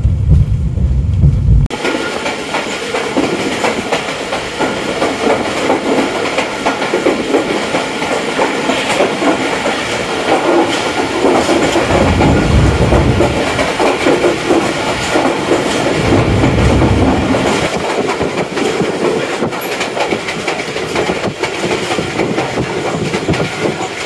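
Passenger express train running on the track, heard from aboard a coach: steady wheel-and-rail noise with clickety-clack over the rail joints. About two seconds in the sound changes abruptly from a heavy low rumble to a brighter clatter, and the low rumble comes back briefly twice later.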